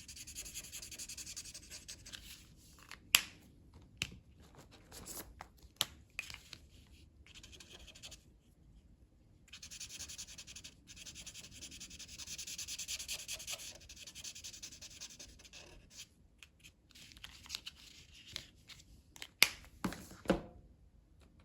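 Colouring medium rubbed back and forth on paper, shading in leaves in scratchy stretches, with sharp taps and clicks now and then, the loudest two near the end.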